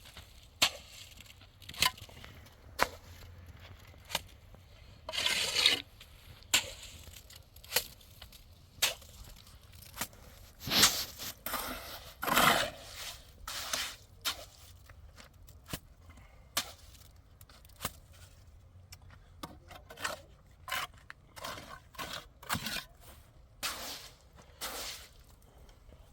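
Irregular sharp clicks and knocks, one every second or so, with a few longer scraping or rustling sounds about a fifth and about halfway through.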